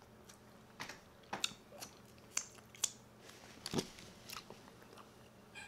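Close-miked chewing and biting of crispy fried chicken wings: irregular soft crackles and wet mouth clicks, about two a second.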